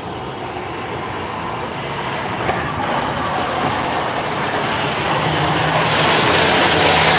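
Motor vehicle noise growing steadily louder as it approaches, with a steady engine hum coming in about five seconds in.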